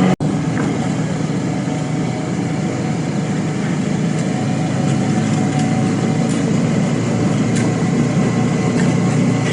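Suzuki V-Strom 650 motorcycle on the move: a steady rush of wind and road noise with the engine running underneath, unbroken throughout.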